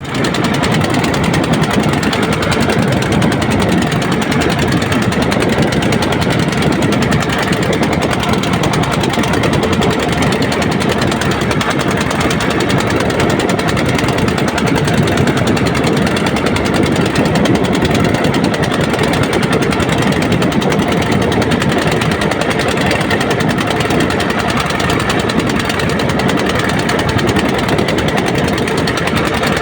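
Boat engine running steadily, with a rapid knocking beat.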